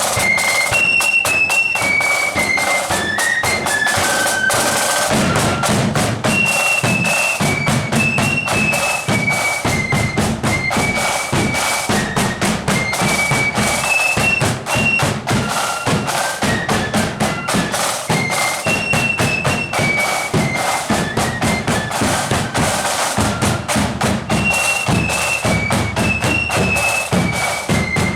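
Marching flute band playing a high, shrill melody over a dense, driving beat of snare and bass drums.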